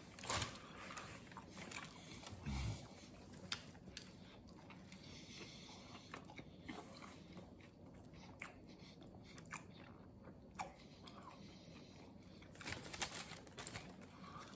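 Faint chewing and mouth sounds of a man eating a sub sandwich, with scattered small clicks and a brief low sound about two and a half seconds in.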